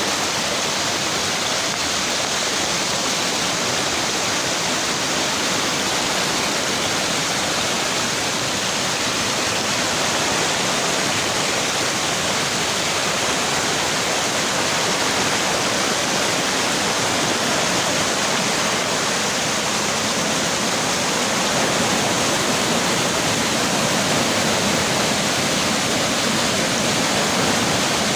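Waterfall, with water rushing down in a steady, even roar.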